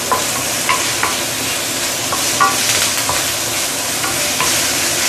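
Curry leaves, tomato and fresh herbs sizzling steadily in hot oil in a wok, with a few short clicks of the utensil against the wok as they are stirred.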